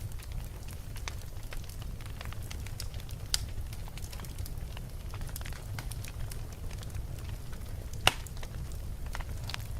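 Wood fire in a fireplace burning with a low steady rumble and scattered crackles and pops; the loudest pop comes about eight seconds in.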